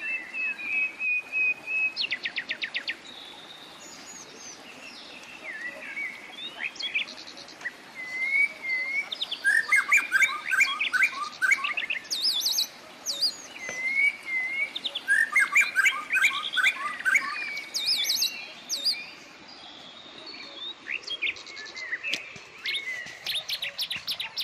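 Wild birds calling and singing, more than one kind: short wavering whistles, a fast chattering phrase that comes back twice, and high sharp chirps.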